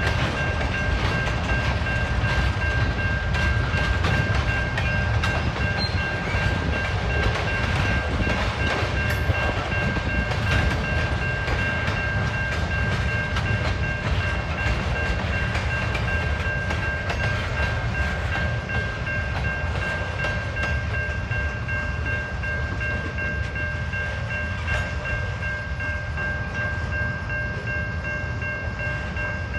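A long train rolling steadily past, with a low rumble and wheels clicking over the rail joints. A steady high-pitched ringing tone sounds throughout.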